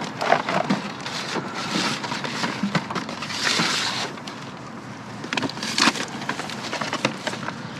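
Packaged food being handled and put into a small pantry box: a run of light knocks and clicks with rustling of wrappers, loudest about three and a half seconds in.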